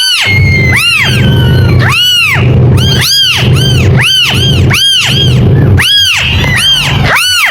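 A kitten meowing over and over, high thin cries about one a second, each rising and falling in pitch, over a steady low hum.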